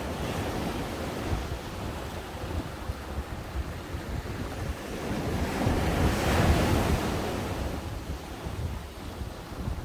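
Ocean waves breaking on the shore, one wave building to its loudest about six seconds in and then washing back, with wind buffeting the microphone.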